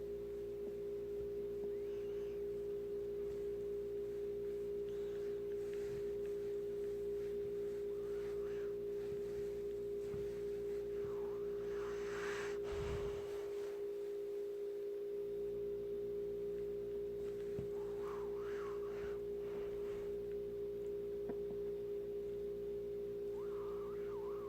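A steady single-pitched hum throughout. A few faint brief noises come and go over it, with a low thump about halfway through.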